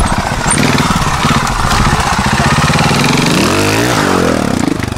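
Trials motorcycle engine running, then blipped hard about three and a half seconds in: its pitch rises sharply and falls back.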